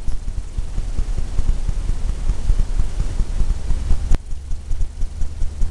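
Paintbrush scrubbing and tapping on canvas, a scratchy rasp that stops with a sharp click about four seconds in, over a steady low rumble.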